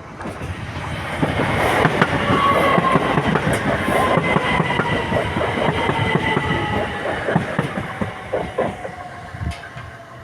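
A train passing, its wheels clattering in quick irregular beats. The sound swells over the first couple of seconds and fades toward the end. A whine falls slowly in pitch as the train goes by.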